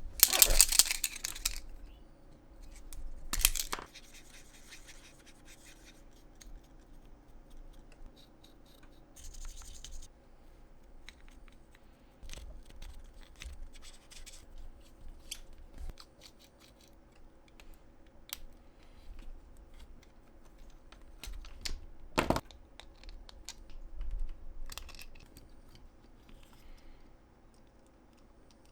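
Small hand-crafting noises at a worktable: irregular scratching and rubbing of craft materials with scattered light clicks. There is a louder scratchy burst at the start, another a few seconds in, and a sharp click a little past the middle.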